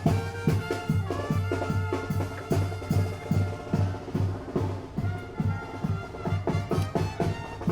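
Tamborazo band music: brass instruments playing over a steady, regular beat on the bass drum.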